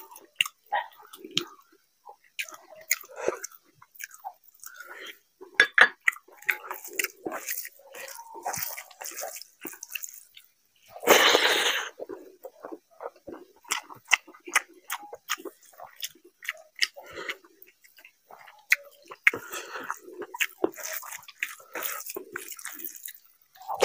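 Close-up eating sounds of rice and mutton curry eaten by hand: chewing, wet lip-smacking and sticky squishes of rice mixed in gravy, in many short irregular clicks. About eleven seconds in, one louder noisy sound lasts about a second.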